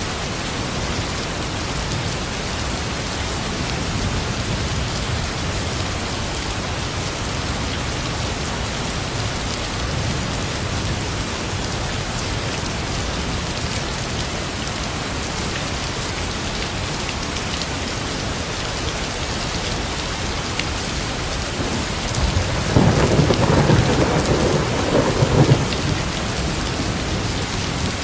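Steady rain falling, with a roll of thunder rumbling for about three seconds near the end.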